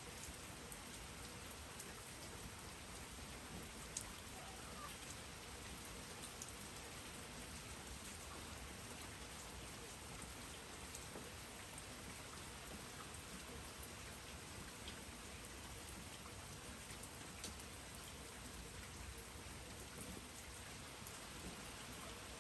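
Steady rain falling, a soft even hiss with scattered sharper drips, the loudest about four seconds in.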